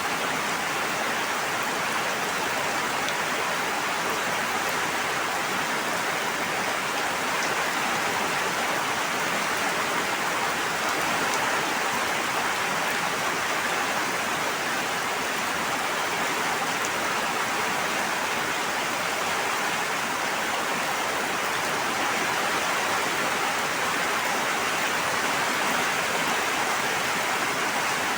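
Steady rush of water, an even hiss with no single drops, splashes or breaks standing out.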